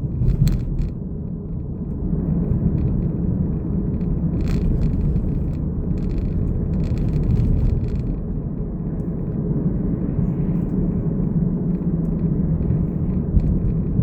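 Steady low rumble of a car being driven, heard inside the cabin: engine and tyre road noise, with a couple of brief faint clicks.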